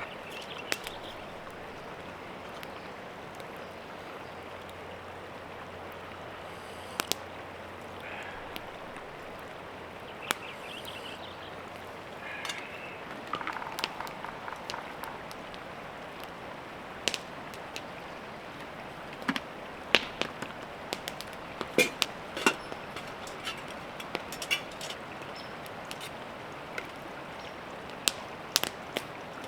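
Steady rush of a small creek flowing, with scattered sharp clicks and taps over it, most of them in the second half.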